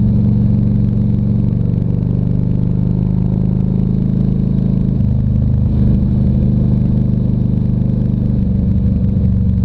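Harley-Davidson Ultra Classic Electra Glide's big-twin engine running under way at road speed, a steady low drone that shifts in pitch about halfway through.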